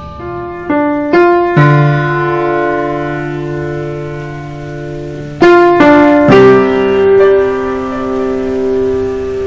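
Background piano music: a few struck notes and chords, each held and left to ring, with a new group of notes about five and a half seconds in.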